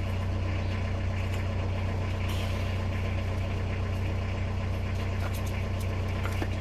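Steady low mechanical hum like an idling engine, with a few faint small clicks of metal parts being handled.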